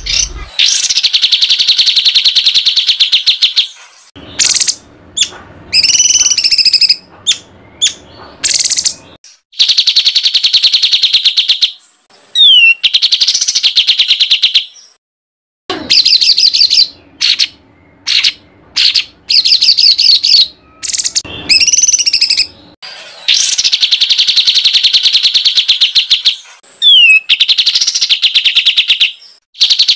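Songbird singing loud, rapid, harsh trills of a few seconds each, with short gaps between them and a few quick up-and-down whistled notes. This is 'tembakan kasar' masteran song, the harsh rapid-fire phrasing that is played to competition songbirds for them to copy.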